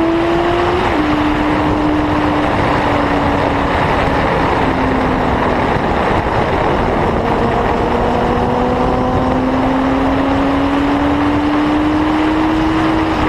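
Motorcycle engine running hard at speed under a steady rush of wind noise. Its pitch drops sharply about a second in as it shifts up, dips a little twice, then climbs steadily through the second half as the bike accelerates.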